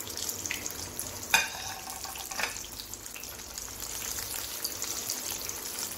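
Boiled potatoes deep-frying in hot oil in a kadhai: a steady sizzle with fine crackling. Two knocks about a second apart come in the first half as the potatoes are stirred with a spatula.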